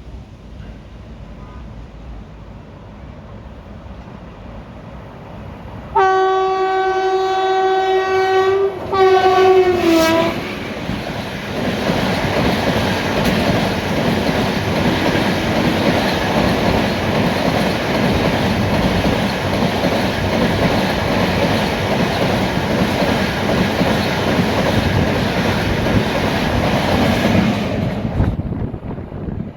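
A train passing at speed sounds its horn in two blasts, a long one and then a shorter one whose pitch drops as the locomotive goes by. The noise and clatter of the coaches rushing past follows for about seventeen seconds, then falls away suddenly near the end.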